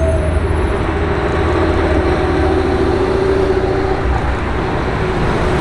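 Street traffic: a vehicle's engine running steadily with a low rumble and a held tone that fades out about four seconds in.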